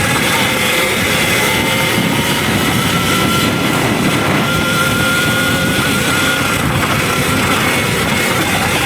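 Electric dirt bike riding on a trail: a thin, steady motor whine over a constant rush of rumbling noise.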